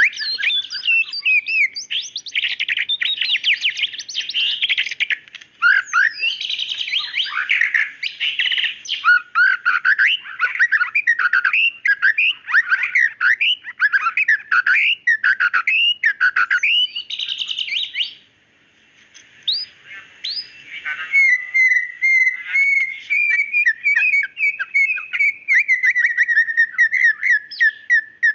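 White-rumped shama (murai batu) singing: a fast, varied run of loud whistled phrases and chattering notes, a brief pause about two-thirds through, then a long rippling trill in the last quarter.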